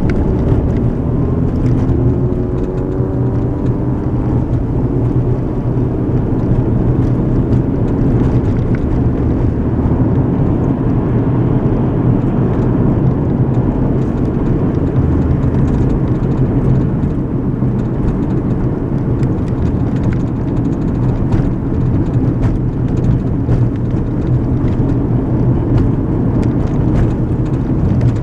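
Car interior road noise while driving: a steady low rumble of tyres and engine, with the engine note climbing in the first couple of seconds as the car accelerates.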